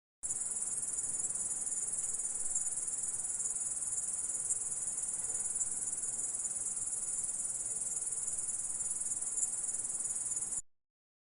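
Grasshopper sound effect: a continuous, dense, high-pitched insect trill that starts abruptly a moment in and cuts off abruptly shortly before the end.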